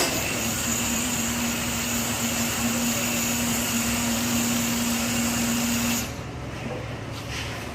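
A small motor on a construction site running steadily with a constant hum, cutting off about six seconds in, leaving a lower background rumble.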